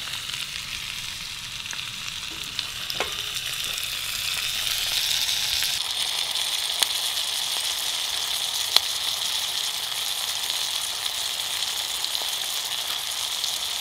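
Sliced onions and peppers sizzling in a hot oiled wok on a wood stove, a steady frying hiss that swells about four to five seconds in, with a few sharp clicks.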